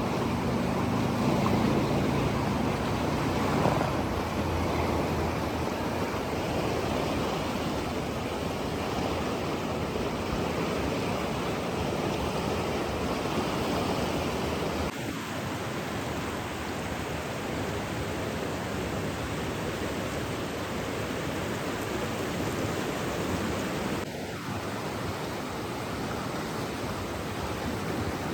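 Steady rushing water, an even hiss without pauses. A low motor hum underneath fades out in the first few seconds.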